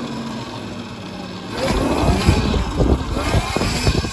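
60-volt electric dirt bike riding, its motor giving a steady hum. About halfway through, a louder rough rumble with knocks and rattles takes over.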